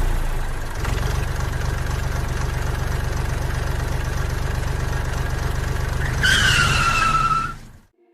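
Engine running steadily with a fast, even low throb. About six seconds in, a high squeal joins it and falls slightly in pitch, then the whole sound cuts off abruptly near the end.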